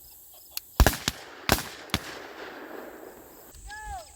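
Several shotgun shots, two loud reports about 0.8 and 1.5 seconds in with weaker ones between, each followed by a short echo. A brief pitched call, rising then falling, comes near the end.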